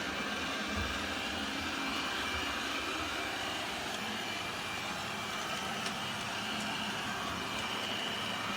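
eufy RoboVac 11S robot vacuum running: a steady whirring hum with a faint high whine.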